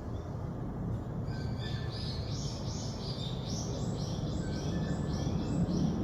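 A small songbird singing a rapid series of short, high chirping notes, about three a second and stepping between two or three pitches, starting about a second in. Under it runs a steady low rumble of background noise.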